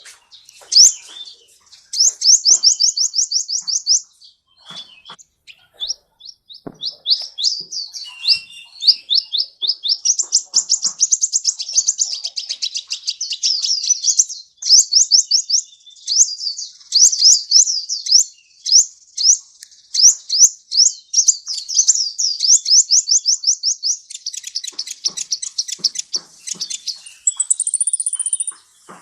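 Sunbird ('kolibri') song: fast, high trills of rapidly repeated slurred notes in phrases broken by short pauses, with a thin, higher note near the end.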